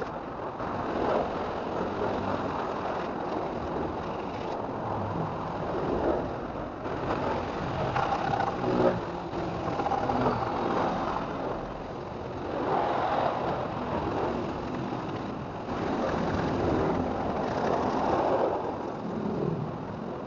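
Motor vehicle engine noise, rising and falling in waves every few seconds.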